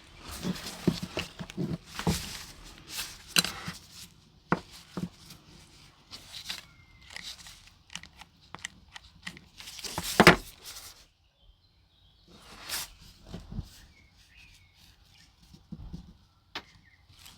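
Irregular clicks, taps and scrapes from hand work on a small diecast model car, with one louder knock about ten seconds in.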